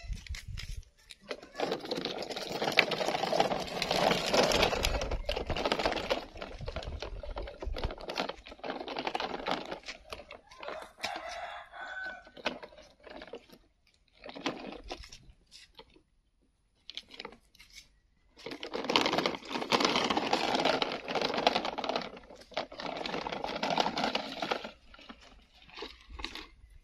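Plastic toy dump truck rattling and clattering as it is played with, in long stretches of rapid clicking with pauses between.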